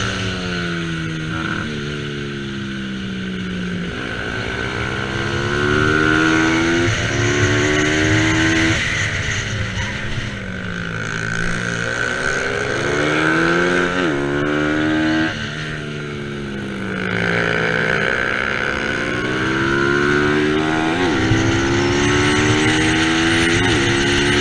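Racing motorcycle engines accelerating hard. The pitch climbs, then drops suddenly at each gear change or lift-off, several times through the stretch, as the bikes run at full race pace.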